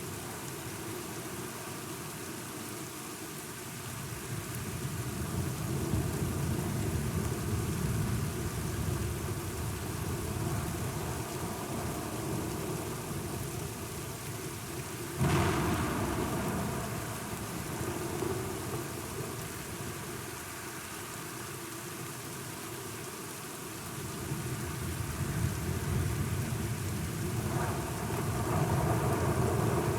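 Thunderstorm: steady rain with low rolling thunder that swells and fades, and a sharp thunderclap about halfway through.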